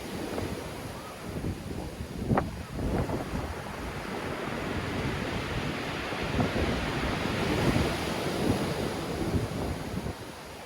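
Sea waves breaking and washing ashore in strong wind, with wind buffeting the microphone. The surf rises and falls in surges, a louder wash about two seconds in and a long swell near the middle.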